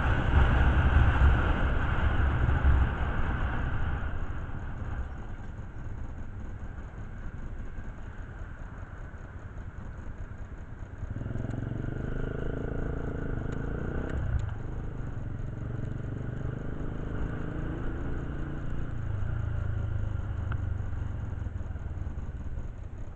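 Motorcycle engines running: a loud low rumble that fades away over the first few seconds, then engine tones rising again from about eleven seconds in and carrying on with small changes in pitch.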